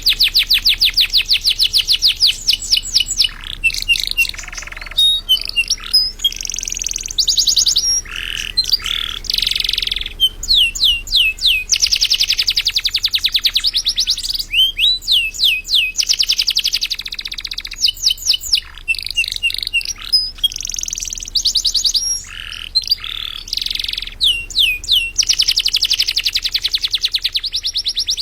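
Canary singing a long, unbroken song of fast trills, each a rapid run of the same short note, switching every second or two to a new run at another pitch, with sweeping whistled notes between them.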